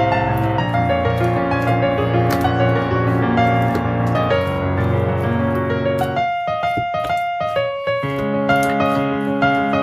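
Background piano music: a gentle melody with a bass accompaniment that drops out for about two seconds in the middle and then comes back.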